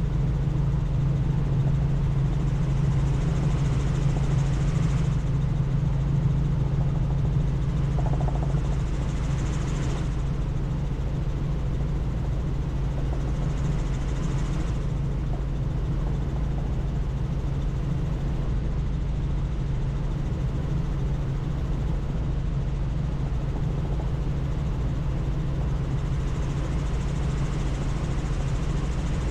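Helicopter in flight: the steady low drone of its rotor and turbine, with a higher rushing hiss that swells and fades several times.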